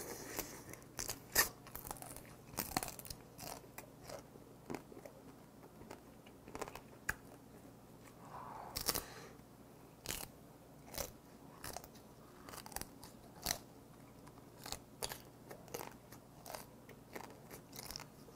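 Close-up crunching and chewing of boiled swimming crab (kkotgae) in the shell: irregular sharp cracks of shell between the teeth and wet mouth sounds as the meat is chewed out.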